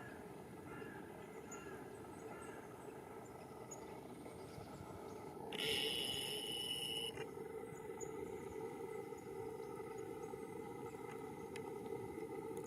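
Outdoor ambience: a steady low rush with faint, scattered high bird chirps, and a louder, harsh high-pitched call lasting about a second and a half about halfway through.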